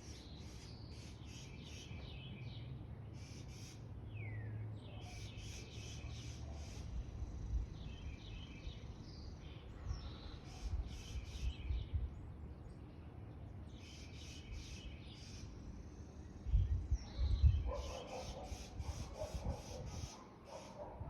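Small birds chirping in groups of quick repeated notes, with an occasional falling whistle, over a steady low rumble. A few louder low thumps come near the end.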